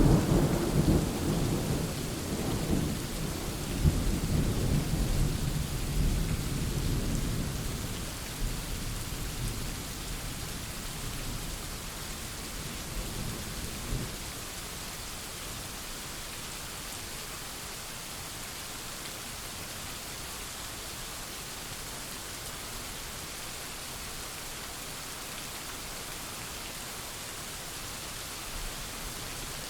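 Thunderstorm: a low rumble of thunder dies away over the first eight seconds or so, with one short clap about halfway through. Steady rain hisses throughout.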